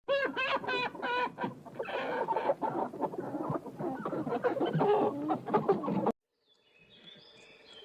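Chickens clucking: a few short pitched calls, then a dense run of clucks that cuts off suddenly about six seconds in.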